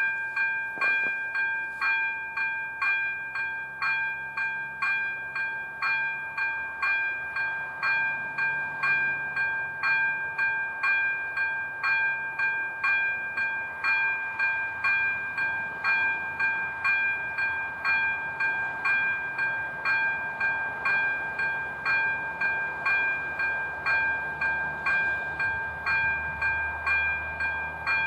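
Level-crossing warning bell (AŽD ZV02 electronic bell) switching on and ringing steadily at about two strokes a second, the signal that a train is approaching. A low rumble builds under it near the end.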